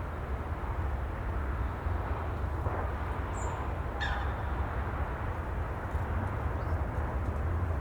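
Steady outdoor sea ambience: an even wash of surf and wind over a low rumble. A short, high bird chirp comes about three seconds in, and a brief call follows a second later.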